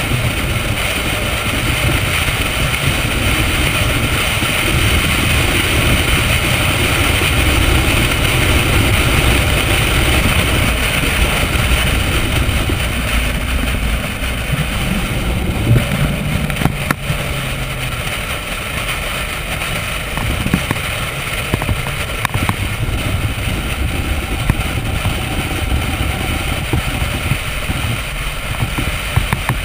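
Chevrolet Corvette's V8 engine running at a steady parade-lap pace. It is heard from a camera mounted outside the car, with wind rushing over the microphone and tyre noise. The engine sound drops somewhat about halfway through, with a few sharp ticks.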